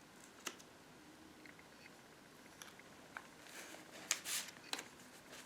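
Pages of a handmade paper junk journal being handled and turned: faint light clicks and taps, with a short paper rustle about four seconds in.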